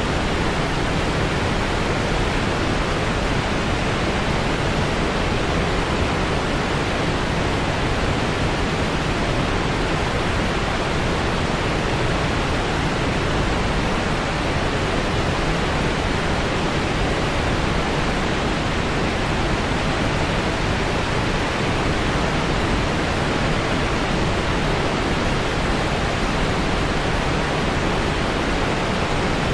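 Steady white-noise track: an even, unchanging hiss with most of its weight in the low and middle range, like pink noise.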